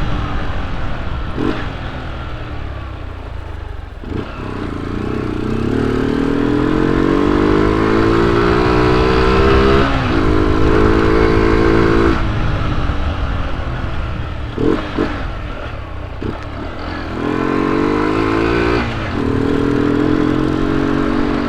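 Honda CG 125i Cargo's single-cylinder four-stroke engine running under way with its intake hose removed. Its revs climb through the gears, drop at each shift, ease off in the middle, then pull up again. A few short knocks come through as well.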